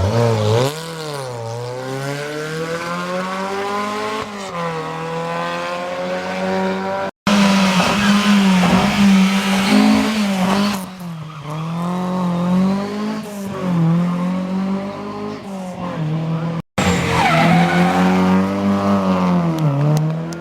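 Historic rally cars driven hard along a stage, engines revving up and falling back through gear changes as the cars slide sideways with tyre squeal. The sound breaks off twice in sudden cuts, each time to another car at full revs.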